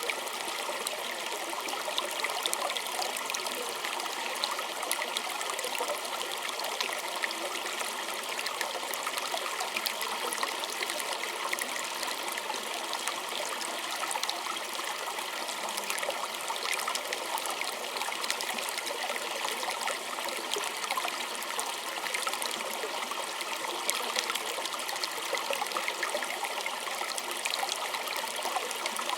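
A small creek running and trickling steadily over stones, an even rush of water with many small splashes and gurgles.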